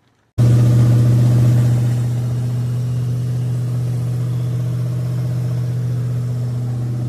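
Ford 4.0 OHV V6 engine running steadily at idle with its new timing chain fitted. It comes in abruptly about half a second in, a little louder at first, then settles after about two seconds.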